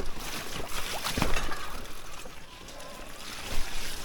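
Electric mountain bike tyres rolling through wet mud and puddle water, with sloshing and splashing and a sharp knock about a second in.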